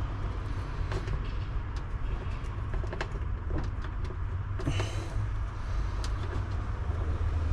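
Faint clicks and rustles of hands handling and joining tail-light wires, over a steady low rumble, with a brief louder rustle about five seconds in.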